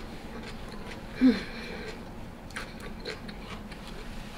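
A person chewing food close to the microphone, with small irregular mouth clicks. About a second in there is one brief, falling-pitched vocal sound, the loudest thing heard.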